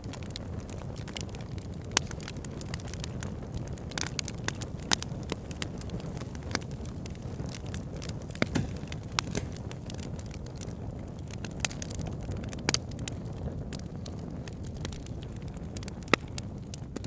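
Wood fire burning in a fireplace: a steady low rumble of flames with irregular sharp crackles and pops, a handful of them louder than the rest.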